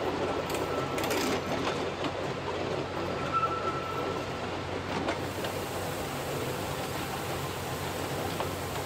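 Odontotos narrow-gauge rack railway train running, heard from the cab: a steady rumbling clatter with faint clicks, and a brief high squeal about three and a half seconds in.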